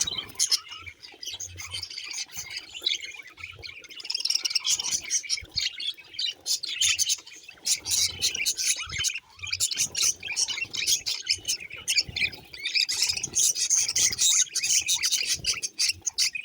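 Budgerigars chattering: a busy, continuous stream of quick high chirps and squawks.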